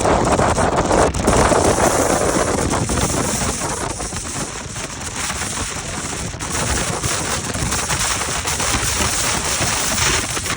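Gale-force mountain-summit wind buffeting the microphone: a loud, continuous rush with a rapid crackling rattle running through it, easing a little around the middle.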